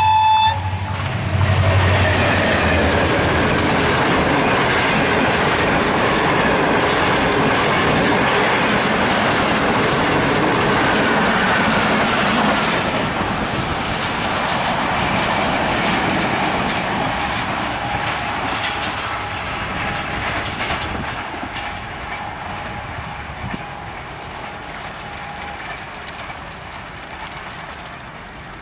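A diesel locomotive's horn cuts off just after the start. A train then passes at speed with a loud rumble and clickety-clack of wheels over the rail joints, and the noise slowly fades as it recedes.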